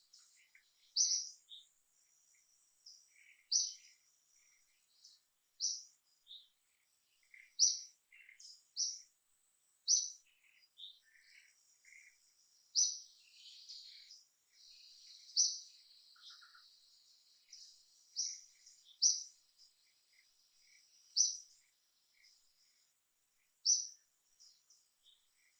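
Short, sharp, high-pitched bird chirps repeating about every two seconds, over a faint steady high insect whine.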